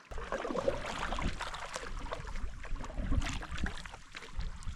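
Canoe being paddled on calm water: irregular paddle splashes and drips over a low rumble.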